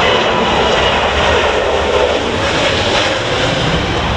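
Jet airliner engines running loud: a steady, even rush of engine noise.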